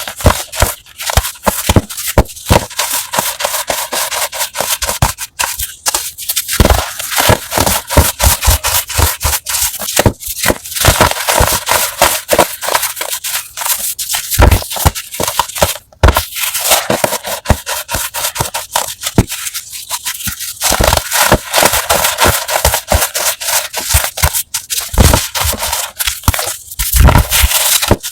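Close-miked crushing of crunchy chalk blocks: a dense, continuous run of sharp crunches and crackles as the crumbly material breaks down, with a brief pause about halfway through.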